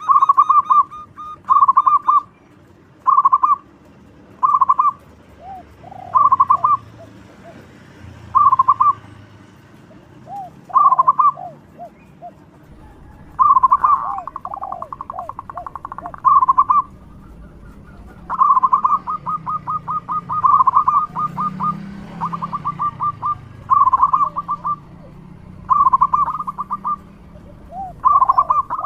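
Zebra dove (perkutut) cooing: loud short phrases of rapid clipped notes repeated about every second and a half, with longer drawn-out rattling runs of notes around the middle.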